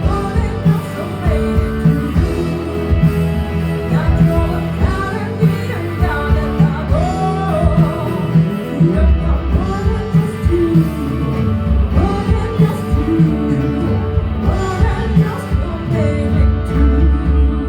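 A rock band playing live, with a singer's voice over guitar, bass and drums.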